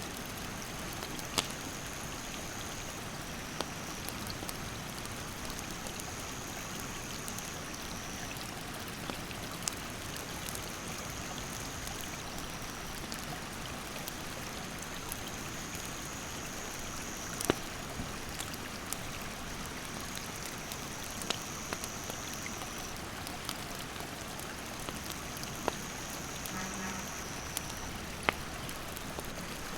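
A river's rapids rushing in a steady wash, with a wood campfire crackling in scattered sharp pops, the loudest about 17.5 seconds in. An insect trills high and steady in stretches of a few seconds with short breaks.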